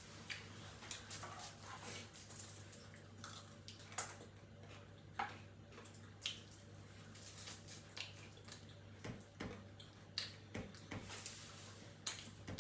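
Close-up eating sounds: chewing and wet mouth smacks, with scattered small clicks at uneven intervals. A low steady hum runs underneath.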